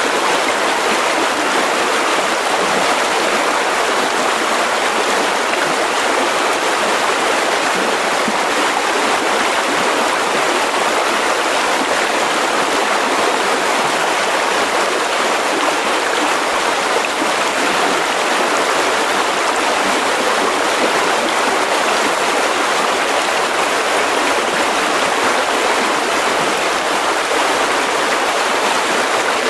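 Mountain river rushing over rocks: a steady, even flow of water noise with no pauses or single splashes.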